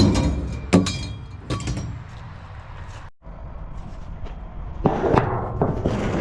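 Garbage being tossed and dropped: a loud crash at the start, then several clattering knocks and glassy clinks, with more clatter about five seconds in, over a steady low rumble.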